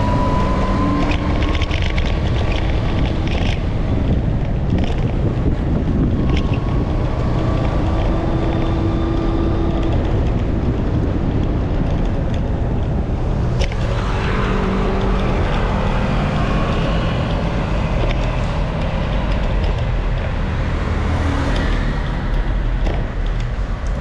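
Wind buffeting the microphone while riding through traffic, with the steady noise of the ride and faint engine tones from nearby vehicles rising and falling.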